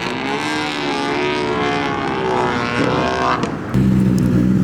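Loud modified car engine accelerating hard, its pitch climbing and dropping back as it shifts through the gears. About three and a half seconds in, it gives way abruptly to a steady, low-pitched engine note at low revs.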